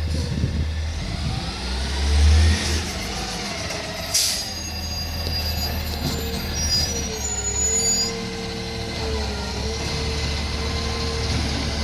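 Garbage truck engine running and revving, with a short air hiss about four seconds in and a whine that wavers slightly in pitch from about six seconds on.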